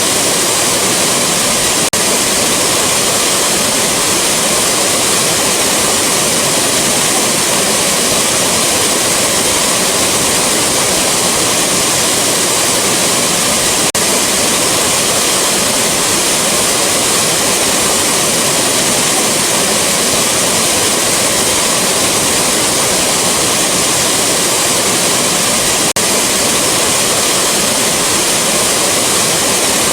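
Rushing waterfall: a loud, steady, unbroken rush of falling water.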